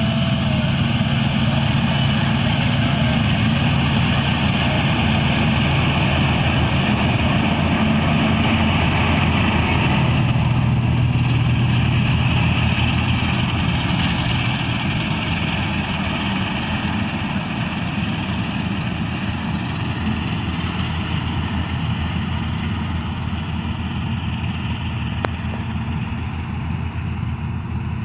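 Kartar 4x4 combine harvester's diesel engine running steadily under load, with a broad mechanical din over the engine's low drone; it gets a little quieter about halfway through.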